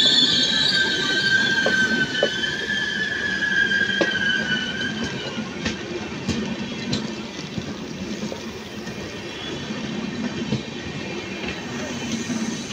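Passenger coaches of an express train rolling slowly past as it brakes into a station. A high, two-toned wheel-and-brake squeal sinks slightly in pitch and fades out about five seconds in, over a steady rumble. Scattered clicks of wheels over rail joints follow, and the sound gradually quietens as the train slows.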